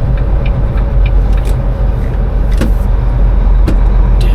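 Vehicle engine running steadily, a loud low rumble, with a few light clicks over it.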